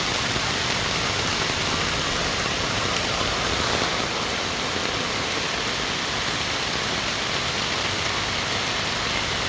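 Heavy rain falling steadily, mixed with the rush of flowing floodwater, an even unbroken hiss.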